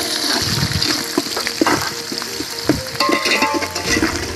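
Chopped small onions and curry leaves sizzling as they fry in a large aluminium pot. A metal ladle stirs them, with repeated short scrapes and clinks against the pot.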